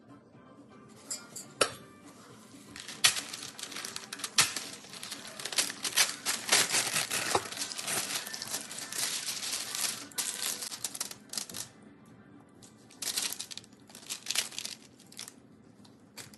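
Crisp baked granola crackling and crinkling as it is broken up by hand on parchment paper: a dense run of fine crackles from about three seconds in until near twelve seconds, then a few shorter bursts.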